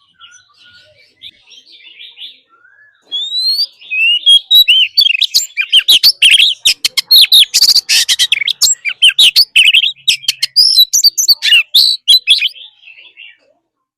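Oriental magpie-robin singing: faint scattered notes at first, then about three seconds in a loud, fast song of gliding whistles and rapid clicking notes that fades out near the end.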